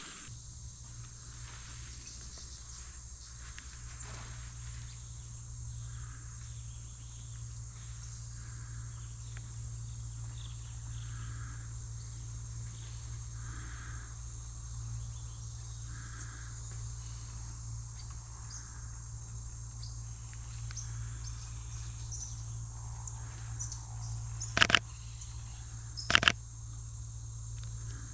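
Steady high-pitched chorus of rainforest insects such as crickets. Two brief sharp clicks come near the end, about a second and a half apart, and are the loudest sounds.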